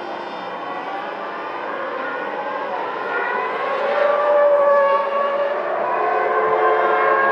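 Formula One cars' 3.0-litre V10 engines running at high revs, several at once, their pitch sliding up and down with acceleration and gear changes. They grow louder about four seconds in.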